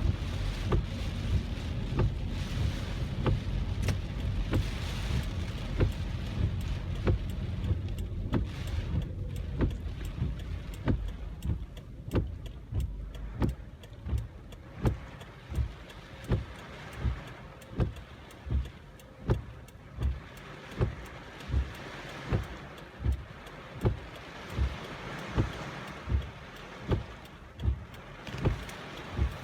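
Inside a car cabin in heavy rain: windshield wipers sweeping back and forth, a thump at each stroke a little more than once a second. A low road rumble is loud for about the first ten seconds, then drops away.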